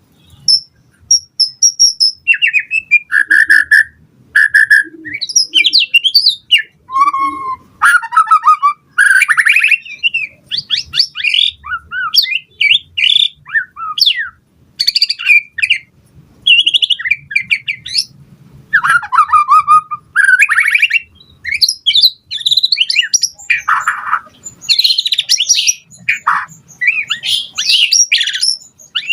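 White-rumped shama (murai batu) singing loudly, a fast run of ever-changing phrases: clear whistles, rapid chirp series, trills and some harsher notes, broken by short pauses.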